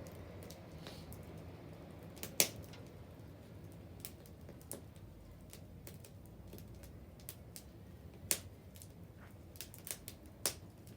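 Burning wood in a bonfire crackling, with irregular sharp pops, three of them louder than the rest, over a low steady rush.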